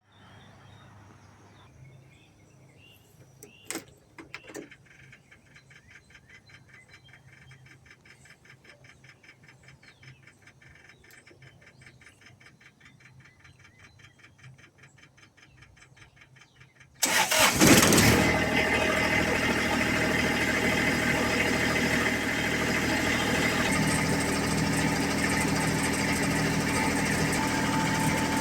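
A couple of faint clicks and a light, fast ticking, then about two-thirds of the way through a lawn mower's engine starts abruptly and runs steadily.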